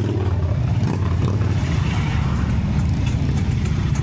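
Triumph Street Triple 675's inline three-cylinder engine running at a steady pace while riding, heard as a loud, even low rumble.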